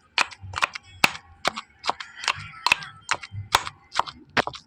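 A kitchen utensil striking hard, about three sharp knocks a second, as chutney ingredients are worked by hand.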